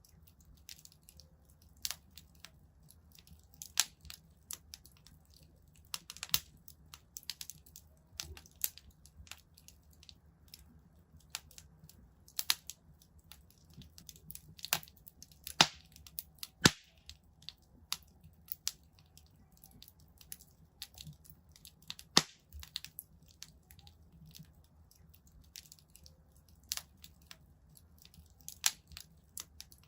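Wood fire in a fireplace crackling: irregular sharp pops and snaps, a few much louder cracks now and then, over a faint low hum.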